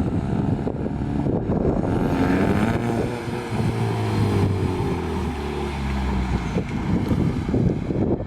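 Straight-piped exhaust of a 2018 Ford Mustang EcoBoost's 2.3-litre turbocharged four-cylinder, muffler and resonator deleted, running. The engine revs up about two seconds in, then the revs fall back over the next few seconds.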